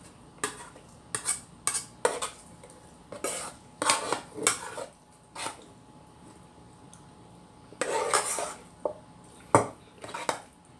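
Cutlery clinking and scraping against a dish during a meal: a string of irregular short clicks, with a few longer scrapes, the longest about eight seconds in.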